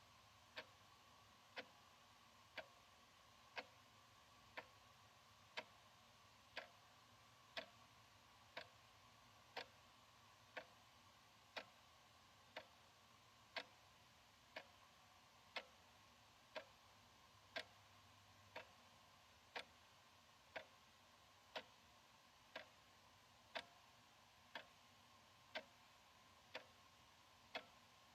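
Analog wall clock ticking steadily, one tick a second.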